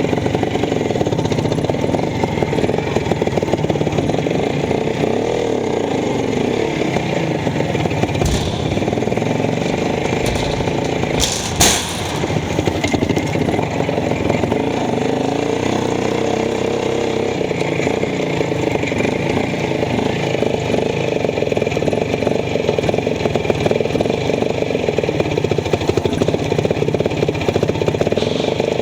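Minsk motorcycle's two-stroke single-cylinder engine running, its speed rising and falling. A single sharp bang cuts through about eleven seconds in.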